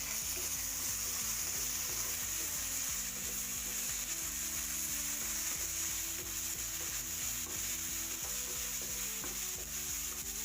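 Onion and ginger-garlic paste sizzling steadily in hot oil in a pan, stirred with a spatula that scrapes the pan now and then.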